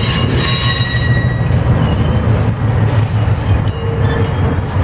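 Streamlined passenger cars of a train rolling slowly past behind a diesel switcher locomotive, a steady low rumble of wheels on rail.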